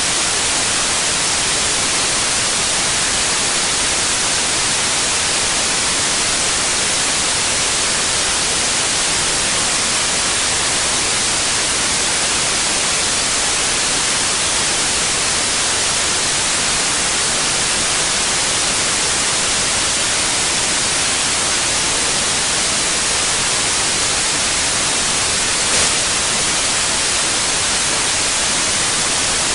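Steady white noise: an even, unbroken hiss, brightest in the treble, with one brief faint tick near the end.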